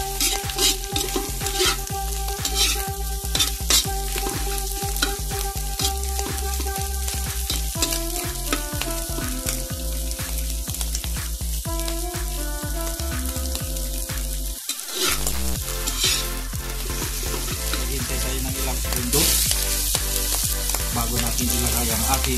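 Shelled mussels with onion and garlic sizzling in hot oil in a pan, stirred with a spatula that scrapes against the pan again and again. Music with held notes and a low beat plays underneath.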